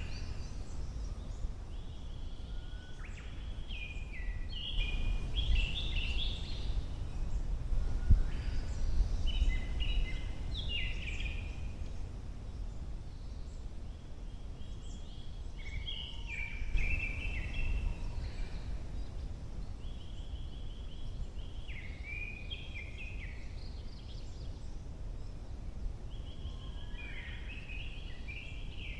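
A songbird singing short, jumbled phrases of quick varied notes, each about two seconds long and repeated every five or six seconds, over a steady low rumble.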